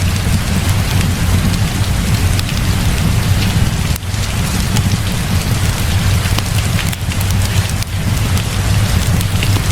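Heavy rain pouring steadily, with a continuous deep low rumble beneath and many small sharp ticks throughout.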